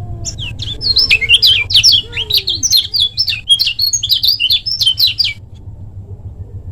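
Kecial kuning, a Lombok white-eye, singing a fast, tightly packed run of high chirping notes for about five seconds, then stopping abruptly. A low steady hum lies underneath.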